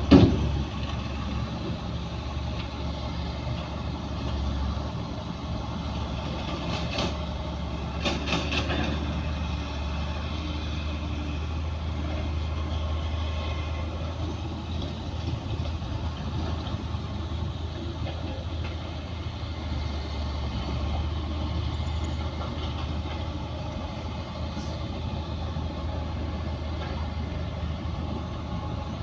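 Bulldozer's diesel engine running steadily with a low drone. A loud sharp knock comes right at the start, and a few short clanks follow about seven and eight seconds in.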